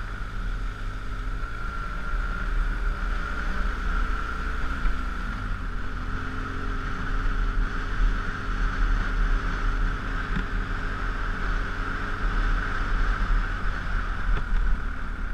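GS dual-sport motorcycle's engine running steadily at cruising speed on a gravel road, heard from on the bike with wind buffeting the microphone; its note rises slightly about five seconds in.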